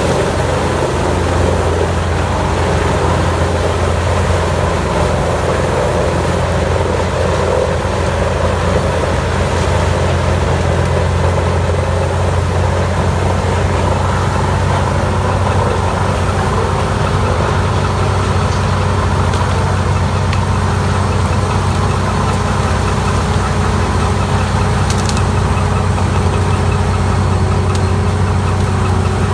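Large diesel-powered wood grinder running steadily, with a constant low engine hum.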